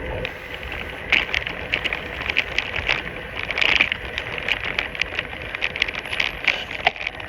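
Bicycle going fast down a slope: a steady rush of noise, with quick, irregular rattling clicks from about a second in.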